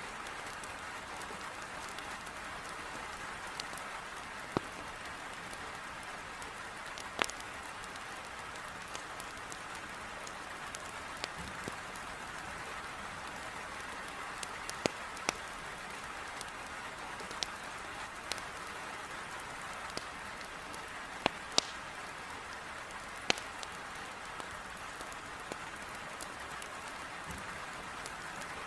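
Heavy rain beating steadily on a window, with the sharp crack and pop of burning firewood in a fireplace breaking through every few seconds.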